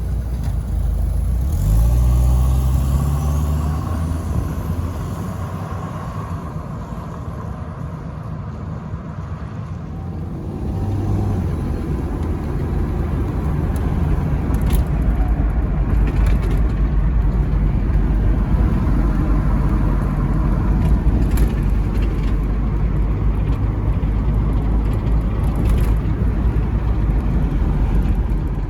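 1986 Chrysler LeBaron convertible being driven: the engine rises in pitch as it accelerates about two seconds in, then steady road and tyre rumble with a few short knocks as it travels.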